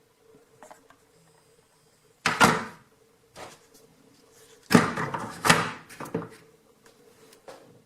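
A few sharp knocks and clatters, the loudest a cluster a little past the middle, over a faint steady hum.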